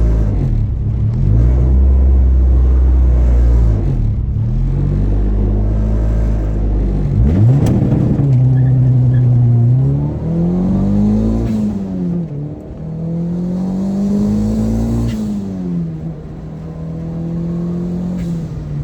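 A car engine accelerating hard. The revs climb and drop back several times in the second half, as if shifting up through the gears.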